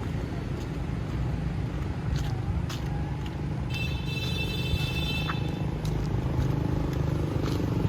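Street traffic: a steady rumble of passing motor vehicles, growing louder near the end, with a brief high-pitched tone lasting about two seconds a little before the middle.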